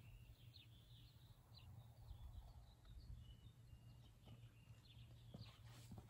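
Faint birdsong: scattered short high chirps and trills over a steady low hum, with a few faint knocks near the end.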